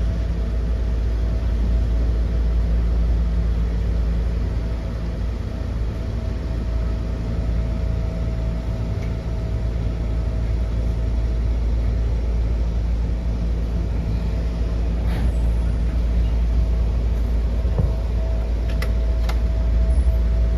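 Ohmi Railway Taga Line electric train running, a steady low rumble with a constant hum over it and a few light clicks near the end.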